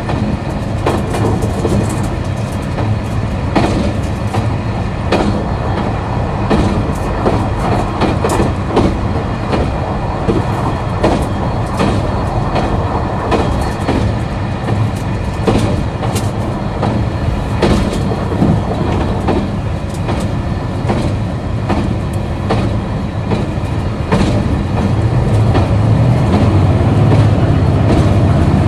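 KiHa 261 series diesel railcar under way: its diesel engine drones steadily while the wheels click over rail joints. About 25 seconds in, the engine note grows louder.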